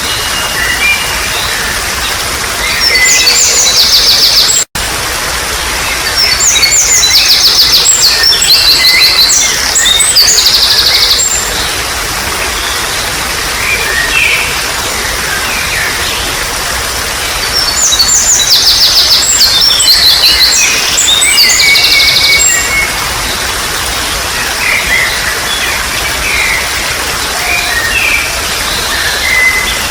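Trickling water making a steady hiss, with songbirds singing over it: long runs of rapid, high, trilled song a few seconds in and again past the middle, and scattered chirps in between. The sound drops out for a split second about five seconds in.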